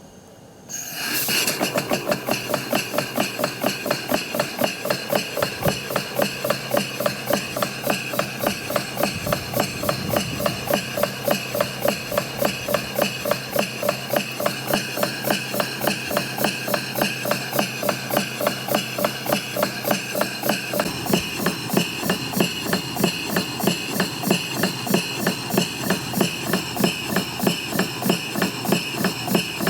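Large model horizontal factory engine running on compressed air. It starts up about a second in, then runs at a steady, even beat of sharp exhaust puffs, roughly three to four a second.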